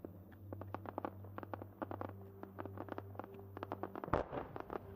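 Aerial fireworks going off: a rapid, irregular series of sharp pops and crackles, with one louder boom about four seconds in.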